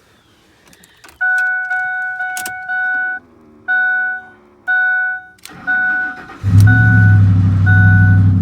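Ford F-150's warning chime ringing in a steady run of repeated two-note dings, then its engine cranks and starts about six and a half seconds in and settles into a steady idle while the chime keeps ringing.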